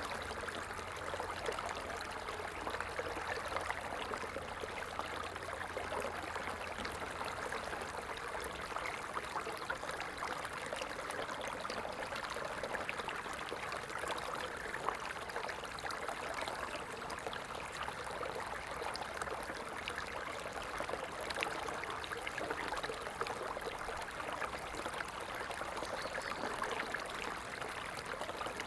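Stream water running steadily, a constant babbling rush with fine splashing detail and no breaks.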